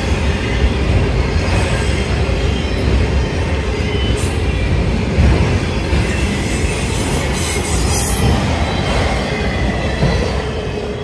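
Freight train of autorack cars passing at speed: a steady, loud rumble of steel wheels on the rails, with faint high-pitched squeal from the wheels at times.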